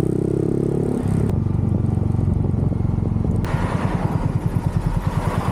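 Motorcycle engine running under the rider. Its pitch drops about a second in, and from about halfway it settles into a low, even pulsing at low revs while a rushing noise comes up over it.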